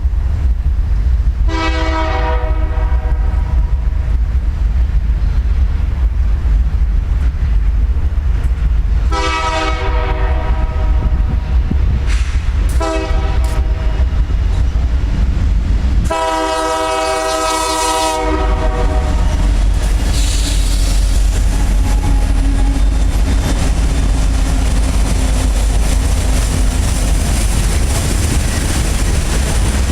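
Locomotive air horn sounding the grade-crossing signal, long, long, short, long, over a loud steady low rumble of the approaching train. The last blast is the longest and loudest, and after it only the rumble continues.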